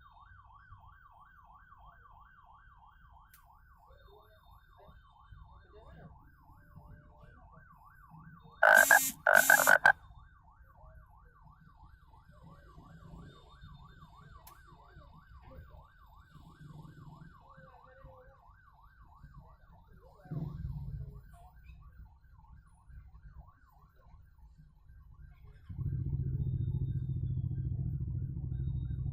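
Emergency vehicle siren yelping continuously, its pitch sweeping up and down several times a second. About a third of the way through come two short, very loud blasts, and near the end a loud, steady low engine rumble sets in.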